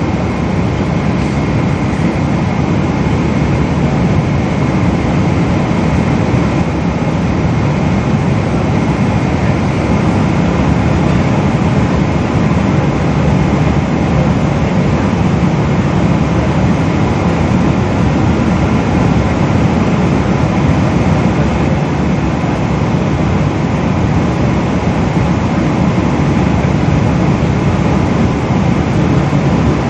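Steady drone inside the passenger cabin of a Boeing 777 in flight: engine noise and rushing airflow, unchanging throughout, with a few faint steady tones above the low rumble.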